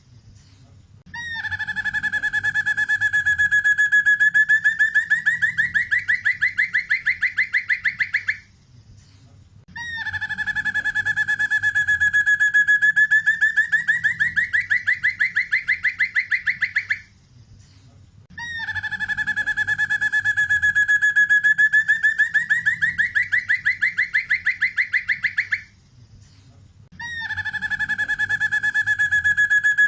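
Black-and-red broadbill (sempur hujan) calling: a long, rapid trill of pulses that rises in pitch toward its end, repeated four times with short pauses between, each repeat identical, as in a looped recording.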